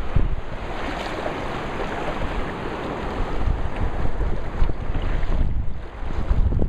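Wind buffeting the microphone with a low rumble, over the hissing wash of small waves in shallow sea water; the wash fades near the end while the wind rumble carries on.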